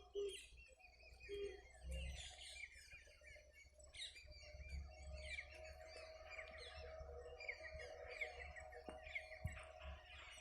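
Small birds chirping and twittering over and over, faint, with a steady low hum underneath from a couple of seconds in.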